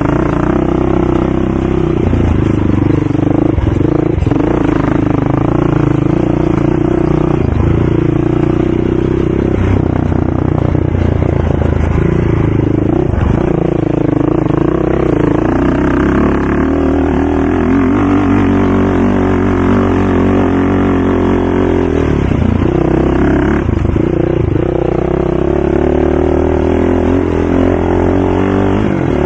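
ATV engine running, its pitch rising and falling.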